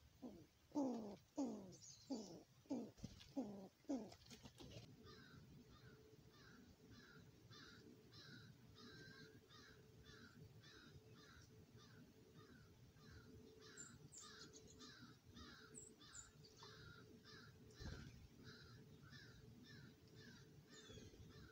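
Birds calling: a series of about seven loud calls, each falling in pitch, roughly two a second in the first four or five seconds, then a faint, even run of short chirps, about two a second.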